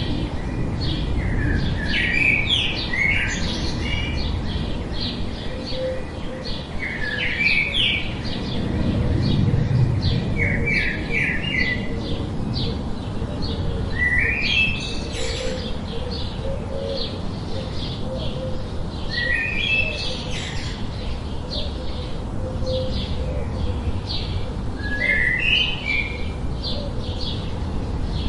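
Birds chirping. Many short chirps run throughout, and every few seconds comes a short phrase of quick rising notes, over a steady low background rumble.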